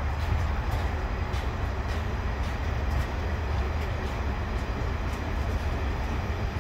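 Loaded ballast wagons of a freight train rolling past: a steady low rumble with regular sharp wheel clicks about twice a second.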